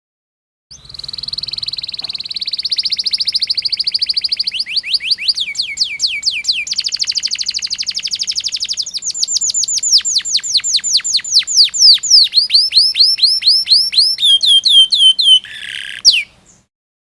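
Domestic canary singing one long bout of rapid rolling trills. It opens with a very fast, buzzy roll, then runs through phrases of quick down-sweeping notes, each phrase at a different speed. The song stops abruptly near the end.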